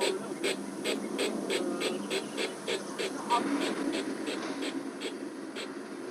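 Sound-equipped model steam locomotive chuffing as it shunts: regular exhaust beats about three a second over a low hum, stopping shortly before the end.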